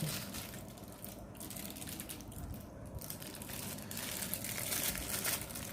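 Food wrapping crinkling and rustling irregularly as it is handled and opened.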